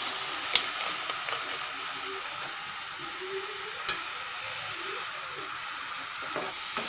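Spice masala sizzling and bubbling in hot oil in a nonstick kadai just after a little water is added: a steady hiss with an occasional sharp pop. Near the end a spatula starts stirring and scraping it around the pan.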